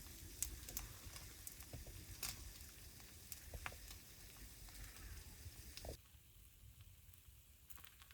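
Fire crackling faintly, with a soft sizzle and scattered sharp pops, dropping quieter about six seconds in.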